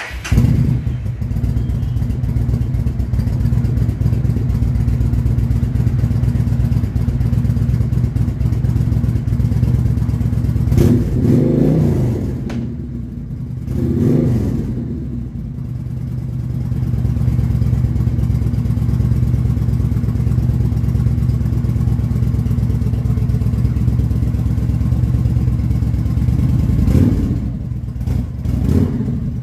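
2013 Yamaha Stryker's V-twin engine starting up and then idling steadily, with short throttle revs a little before the middle and twice more near the end. The revs are given with the clutch lever pulled in to free a clutch stuck after the bike sat unused over winter.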